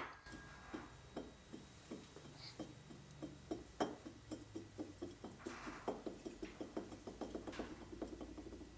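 A faint series of short taps or knocks, slow at first and quickening to several a second toward the end.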